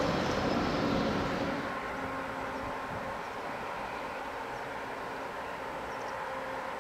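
About a second and a half of louder station-hall rumble that cuts off, then a steady distant hum with faint steady tones from an approaching electric railcar and a lorry on the road beside the line.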